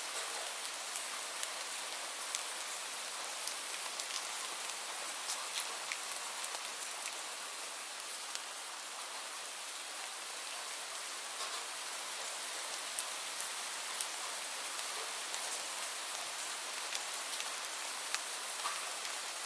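Steady rain falling on hard surfaces: an even hiss with many separate drops ticking sharply over it.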